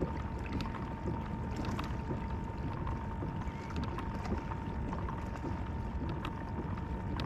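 Wind on the microphone and water noise around a kayak, with scattered light clicks and splashes while a hooked redfish is brought in. A faint steady whine runs underneath.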